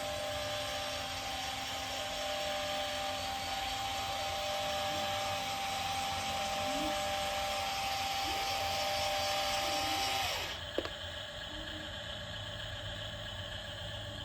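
Small electric motor of a 1/20-scale RC dump truck whirring steadily, with a constant whine and a second tone pulsing on and off. It cuts off suddenly about ten and a half seconds in, followed by a single click.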